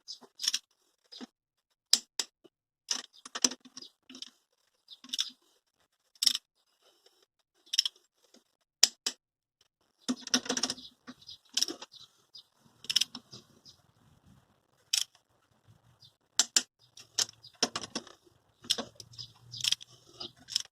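Irregular metallic clicks and clinks of hand tools being worked on the engine during bolt tightening, some coming in quick clusters.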